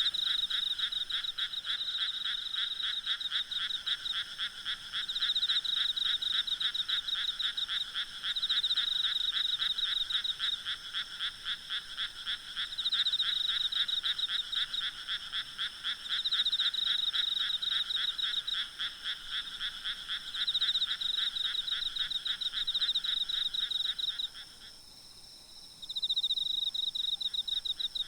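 A chorus of frogs calling in rapid, dense runs of croaks, which pause for about a second near the end and then start again. Behind it is a steady, high insect trill.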